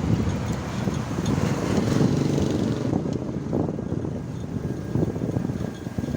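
Ride noise: an uneven rumble of wind buffeting the microphone, mixed with the sound of the vehicle moving along the road.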